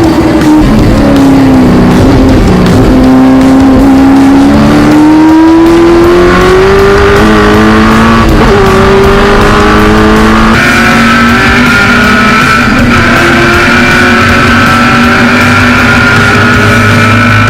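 V8 engine of a historic muscle race car at racing speed. It slows over the first couple of seconds, then accelerates hard with its pitch climbing for several seconds. Its pitch jumps higher about halfway through and holds.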